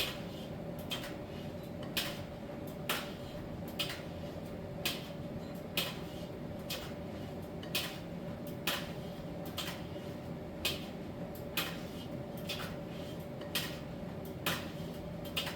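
Miele T1 heat-pump tumble dryer running with a steady hum, and light clicks about once a second as the tumbling load knocks against the turning drum.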